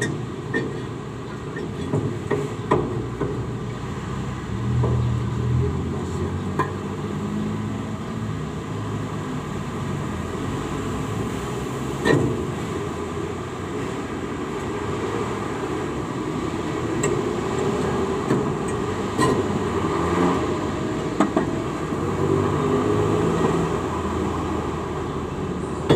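Hand tools clicking sharply against metal engine parts now and then, over a steady low rumble.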